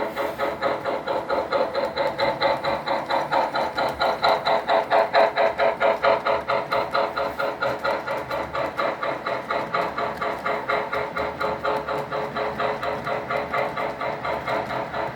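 Model steam locomotive chuffing steadily at about five or six chuffs a second.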